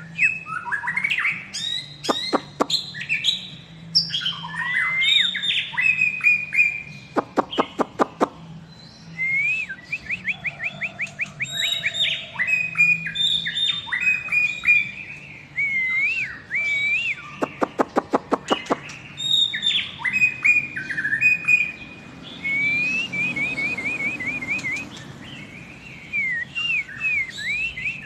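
White-rumped shama (Medan murai batu) singing on and on: a varied, loud song of whistled phrases and quick trills, broken several times by rapid rattling series of clicks.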